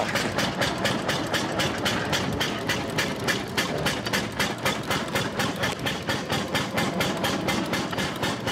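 Mercedes-Benz C111's Wankel rotary engine idling with a fast, even pulse.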